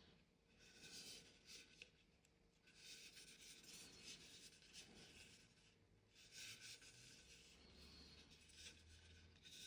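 Faint rubbing and scraping of plastic shower-head filter parts being handled and fitted back together, in several short stretches.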